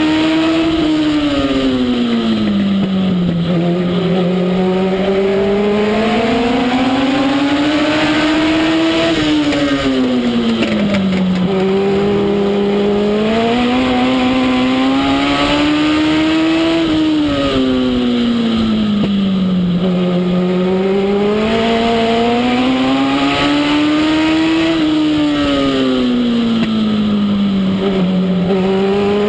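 Legend race car's Yamaha motorcycle four-cylinder engine running hard in a race. Its pitch climbs for several seconds and then drops back, over and over, about every eight seconds, the cycle of accelerating and lifting around a short oval.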